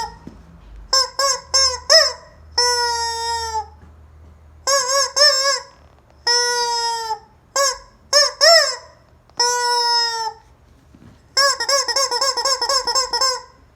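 Rubber squeaky chicken toy being squeezed over and over, giving loud honking squawks: some short and quick, others drawn out for about a second, with a rapid run of squeaks near the end.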